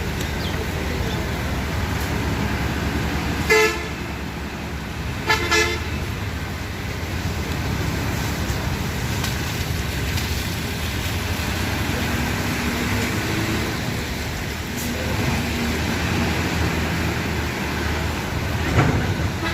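Steady low rumble of a bus running on the road, with traffic noise. A vehicle horn honks once about three and a half seconds in, then twice in quick succession about two seconds later.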